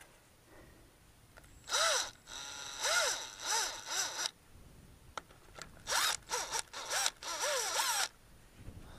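Milwaukee power tool run in short trigger pulls, its motor speeding up and slowing again on each pull, in two spells of about two seconds each, while taking apart a vacuum tanker's vacuum pump for a rebuild kit.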